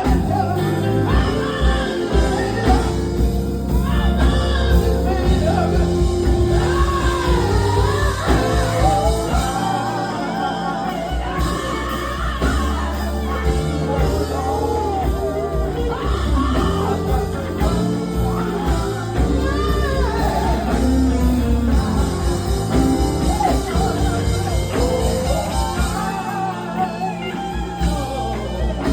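Live gospel quartet music: a full band with heavy bass and drums, with singing voices over it but no clear words.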